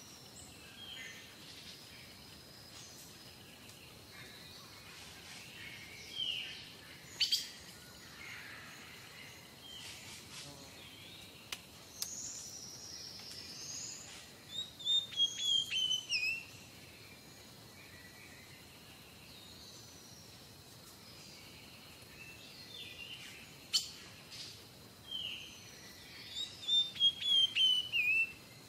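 Birds chirping and calling: short runs of quick, falling chirps that come in bursts, with quieter calls between them. Two sharp clicks are heard, one about seven seconds in and one near the end.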